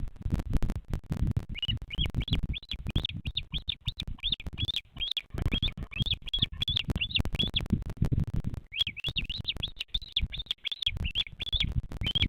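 Bearded vulture chick peeping: high, quick chirps that each rise and fall, about four or five a second, in two runs, the first starting about a second and a half in and the second after a short pause. Low rumbling and crackling noise runs underneath.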